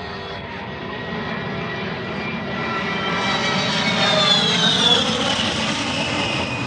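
A-10 Thunderbolt II's twin turbofan engines whining on an attack run. The sound grows louder to a peak about four to five seconds in, and the whine falls in pitch as the jet passes.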